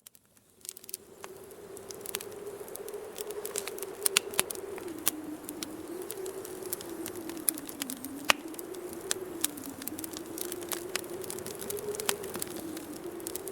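Wood fire crackling with frequent sharp pops, over wind blowing with a low whistle that slowly wavers up and down in pitch. Both fade in during the first second.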